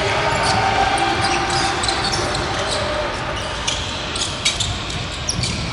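Basketball game play in a gym: a ball bouncing on the hardwood with scattered short sharp knocks and squeaks, over a steady background din.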